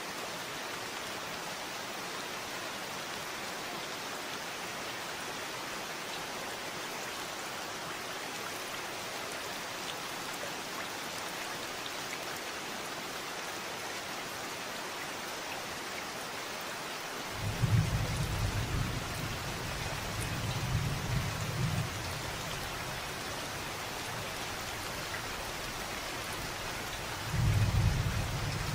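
Steady rain falling, with a low rolling rumble of thunder that starts suddenly about two-thirds of the way in and lasts a few seconds, and a second roll near the end.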